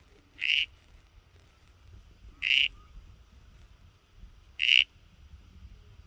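An animal giving three short, raspy calls, evenly spaced about two seconds apart, over a faint low background rumble.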